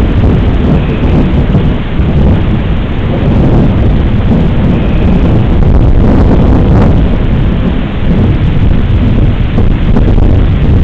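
Thunderstorm: rain falling with a loud, steady, deep thunder rumble.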